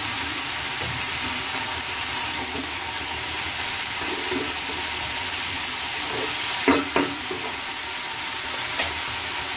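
Spinach and mixed vegetables frying in a kadai with a steady sizzle while being stirred, with two sharp knocks about seven seconds in and a lighter one near the end.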